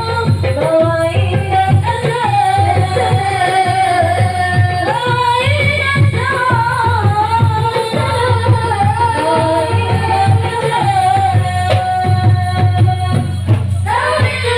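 Marawis ensemble playing: a singer's long, ornamented melody over a steady, dense beat of frame drums.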